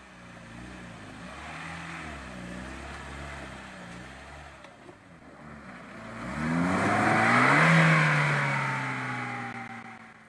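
Off-road 4x4 engines working through mud and a rocky creek. For the first six seconds an engine runs at low revs, its pitch wavering up and down. Then an engine revs up hard, loudest about eight seconds in, and slowly winds down.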